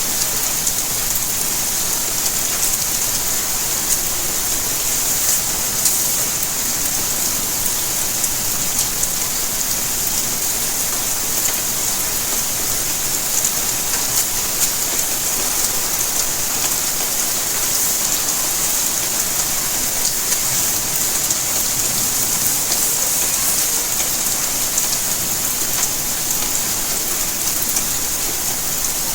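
Steady rainfall: an even hiss with many small ticks of drops landing.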